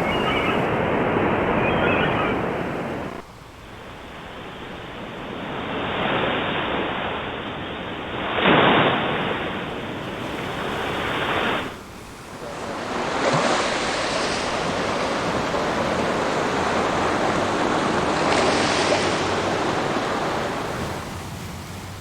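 Ocean waves surging and breaking, several swells with the loudest crash about eight and a half seconds in. The sound drops off abruptly twice, near three seconds and near twelve, as if separate recordings were joined.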